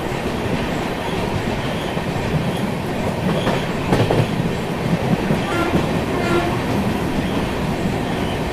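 Passenger train running on the track: a steady rumble with wheels clicking over rail joints, and a few sharper clicks about four and five seconds in.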